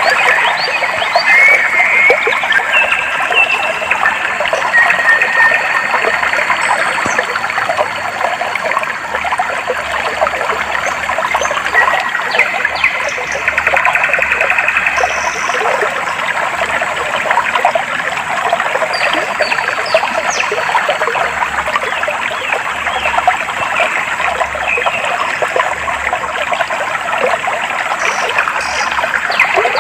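Clear water flowing and trickling steadily in a stream, with small birds chirping and whistling over it now and then.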